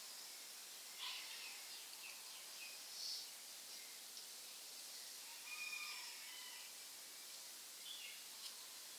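Faint, steady outdoor hiss with a few short bird calls and chirps scattered through it, several seconds apart.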